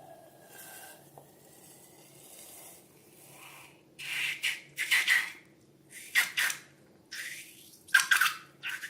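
Slime being handled and squeezed, giving a run of short, loud, wet squishes about a second apart after a quiet first half, over a faint steady hum.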